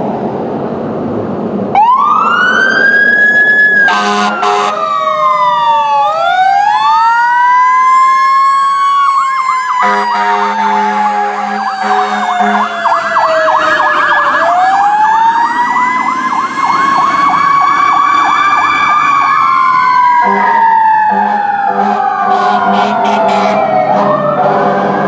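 Fire engine siren starting suddenly about two seconds in, then wailing in long rising and falling sweeps, with stretches of fast yelping. Blasts of the truck's air horn sound several times over the siren.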